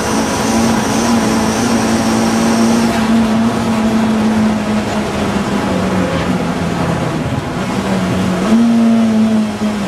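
Audi TT racing car's engine running hard at steady high revs, its pitch sagging slightly through the middle, then jumping up sharply near the end. A thin high whine sits over it for the first few seconds.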